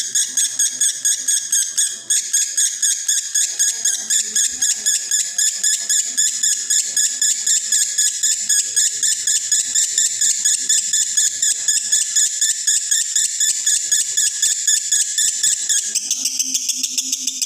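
Male lovebird singing a long, unbroken rapid chatter in the 'konslet' style of a bird in breeding condition, high-pitched and pulsing about five times a second. Near the end the lower part of the song drops away and it goes on thinner.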